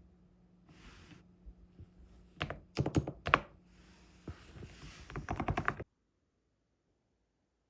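Typing on a computer keyboard: a few separate keystrokes, then a quick run of keys. The sound cuts off suddenly about three-quarters of the way through.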